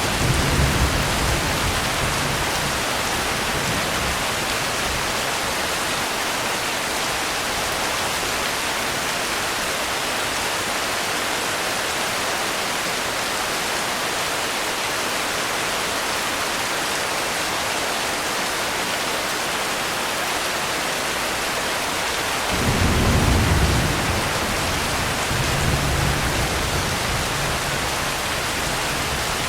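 Steady heavy rain, with thunder rumbling low at the start and twice more in the last quarter.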